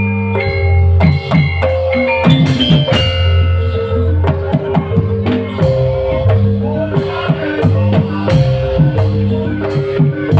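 Live band music: quick, repeated struck notes like mallet percussion over a steady bass line, with drum hits.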